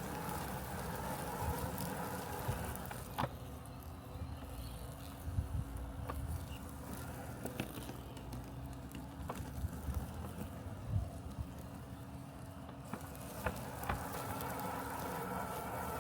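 Robotic lawn mower running with a steady mechanical hum, dropping lower in the middle and coming back up near the end, with scattered small clicks.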